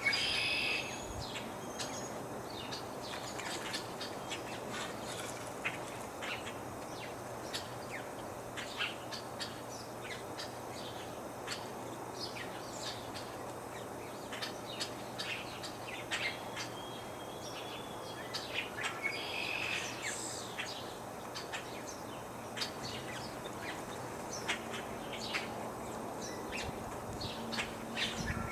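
Many small birds chirping and calling, short chirps coming every second or so, with louder calls about half a second in, around twenty seconds in and near the end, over a low steady breeze hiss.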